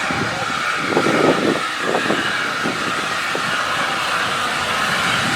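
A train running, a steady rushing noise that grows louder toward the end. Faint voices come through about a second in.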